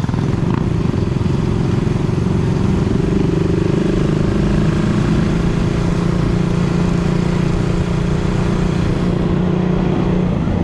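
Suzuki Raider 150's single-cylinder four-stroke engine running while the motorcycle is ridden at low speed, its note holding steady.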